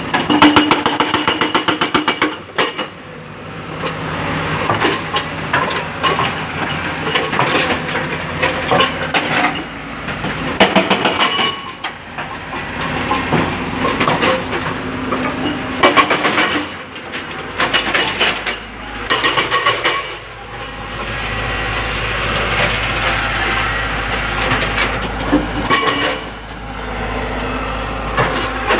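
L&T Komatsu hydraulic excavator working: its diesel engine runs throughout, with repeated bouts of metallic clattering and clanking, and the engine note rises about two-thirds of the way through.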